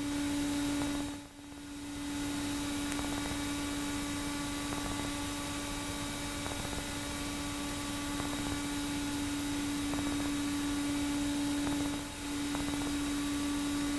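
Light sport aircraft cockpit noise heard through the intercom: a steady hum over an even hiss. It dips briefly about a second in and again near the end.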